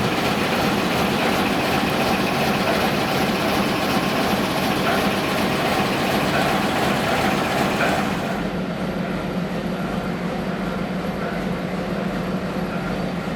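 Steady running noise of a moving suburban train, heard from on board. It becomes duller and a little quieter about eight seconds in.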